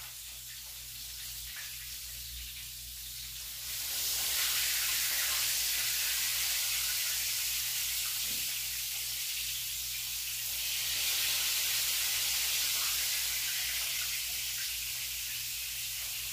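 Breaded cauliflower pieces frying in oil in a pan, a steady sizzle that grows louder about four seconds in, eases a little around the middle and swells again near eleven seconds.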